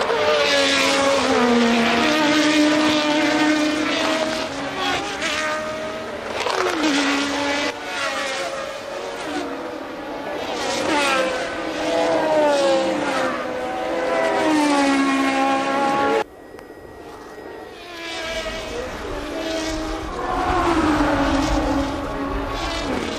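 Formula One race cars running at speed, their engine notes repeatedly rising and falling in pitch as they pass and change gear. The sound cuts off abruptly about sixteen seconds in, then engines come back over a low rumble.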